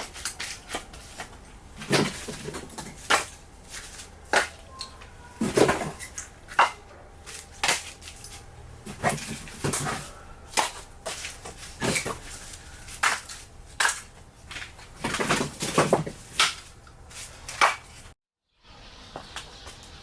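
Split firewood logs clunking and clattering against each other as they are handled and stacked, an irregular series of wooden knocks.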